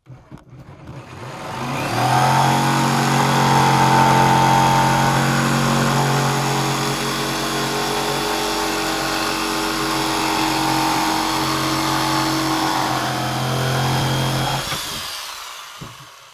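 Electric power tool cutting the hatch opening in a plastic kayak deck. Its motor builds up over the first two seconds, runs steadily under load, and winds down near the end.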